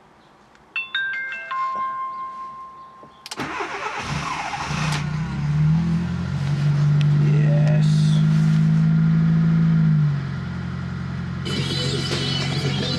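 Fuel-injected Fiat Panda 4x4 Sisley cold-started below freezing: after a few short electronic tones, the starter cranks about three seconds in and the engine catches within about a second and a half. It then settles into a steady fast cold idle that drops slightly about ten seconds in.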